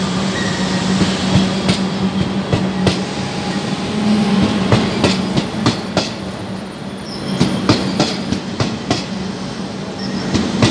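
Metro Trains Melbourne electric suburban train rolling past close by, its wheels clacking irregularly over rail joints above a steady low hum.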